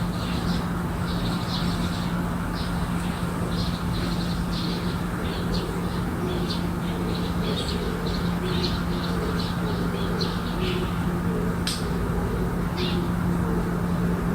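Small birds chirping in many short, high calls, over a steady low hum. A single sharp click comes late on.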